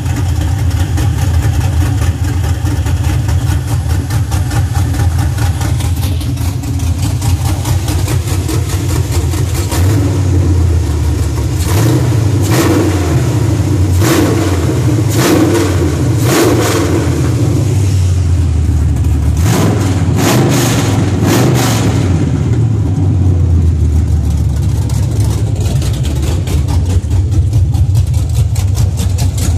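5.3-litre GM LS V8 with an ASA camshaft idling, then revved by hand in a series of quick throttle blips through the middle, before settling back to idle.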